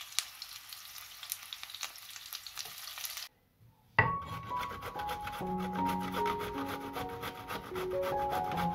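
Zucchini fritters sizzling and crackling in hot oil in a frying pan, cutting off after about three seconds. After a short gap comes a sharp knife cut on a wooden board, then zucchini rasping on a metal box grater under background music.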